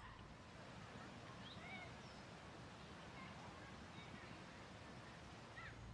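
Faint, scattered bird chirps, a few short calls, over a soft steady hiss of outdoor ambience.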